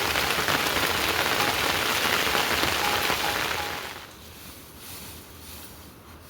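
Heavy rain falling steadily, then cutting off abruptly about four seconds in, leaving a much quieter background.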